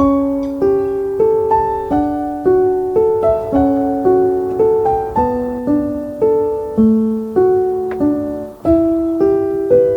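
Gentle solo piano background music: broken chords played as a steady flow of single notes, each struck and fading, with a brief pause near the end.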